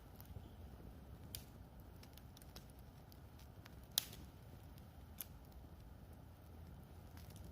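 Wood fire crackling: scattered sharp pops, the loudest about four seconds in, over a faint low steady sound of the burning fire.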